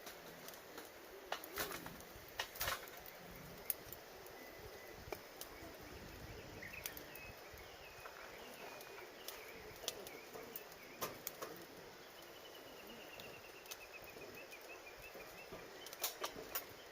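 Wood fire crackling, with scattered sharp pops and snaps from the burning firewood and a small cluster of them near the end. Wild birds call in the background, including a quick run of falling notes past the middle.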